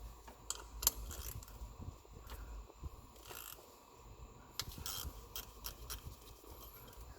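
Scattered clicks, taps and short scrapes of hands and tools working on parts in an engine bay, as a component is worked loose.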